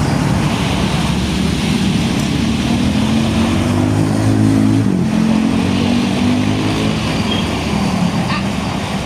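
Heavy road traffic: a large diesel truck's engine running as it passes, over steady tyre and road noise. Its engine note rises slowly, drops suddenly about five seconds in, then holds before fading.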